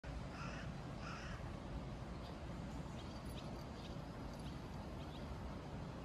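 A bird calling twice, about half a second and a second in, then a few faint short chirps, over steady low background noise.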